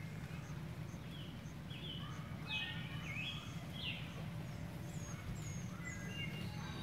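Wild birds chirping and singing in short sliding and falling notes, several overlapping, over a steady low background hum.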